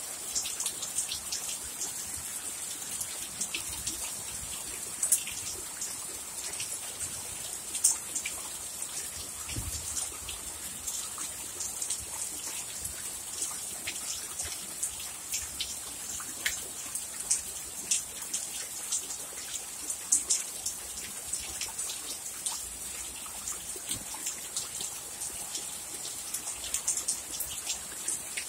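Heavy rain pouring down: a steady hiss with many sharp taps of drops striking close by.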